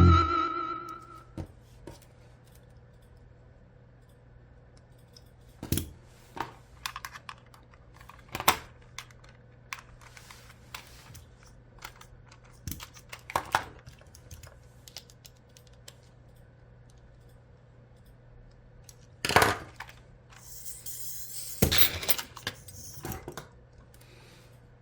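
Scattered clicks, taps and clatters of small hard parts being handled, some in quick little runs, with a faint steady hum underneath.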